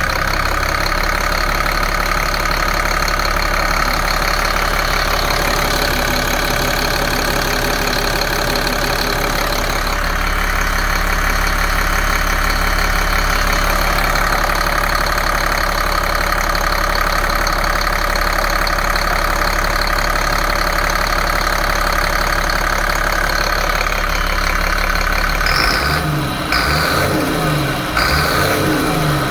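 Caterpillar C7 inline-six diesel engine idling steadily, with a brief change in its sound near the end.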